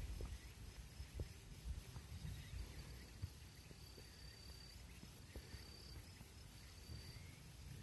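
Insects singing in the grass: a faint, high, thin trill that comes and goes, over a low rumble and a few small clicks.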